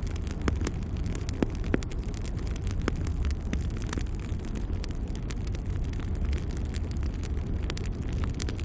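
Logs burning in a fireplace: frequent sharp crackles and pops over a steady low rumble of the fire.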